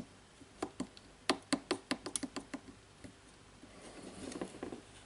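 Small hard parts clicking and tapping, about a dozen light, sharp knocks in quick succession, as a bearing is fitted onto a jigsaw motor's shaft. Near the end, a softer scraping rustle of parts being handled.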